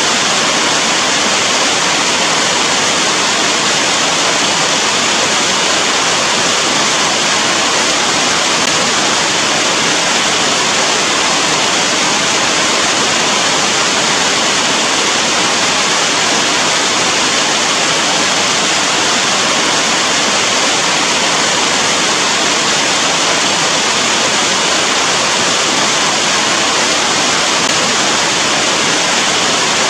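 Steady rain, an even hiss with no separate drops, thunder or changes.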